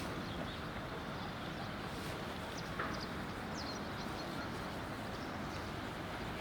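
Steady outdoor background noise with a few faint, short bird chirps around the middle.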